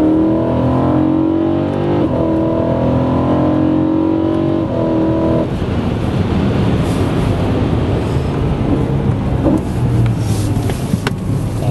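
BMW M3 engine heard from inside the cabin, rising in pitch as it accelerates, with a gear change about two seconds in. About five and a half seconds in the driver lifts off and the rising note stops, leaving a low engine drone under road and tyre noise.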